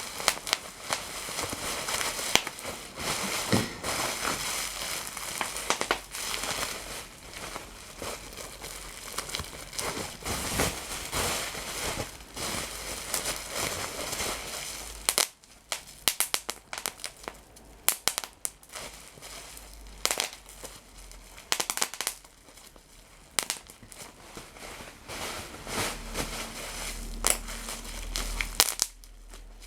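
Close-miked crinkling and crackling of material being handled and crushed. It is dense for about the first half, then thins to scattered sharp clicks and crackles.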